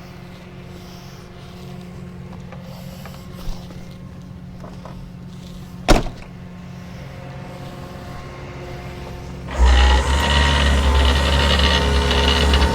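Idling truck engine with a sharp knock about six seconds in; near the end a much louder mechanical drone with a steady whine starts up, as from the rollback tow truck's machinery working.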